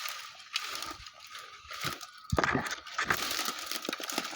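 Brambles and dry undergrowth rustling, crackling and snapping as someone pushes through on foot, with a louder crunch a little over halfway through.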